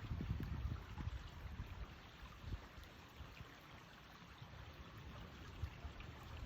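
A small forest stream running, a steady faint rush of water. Low rumbling on the microphone is loudest about the first second and comes back near the end.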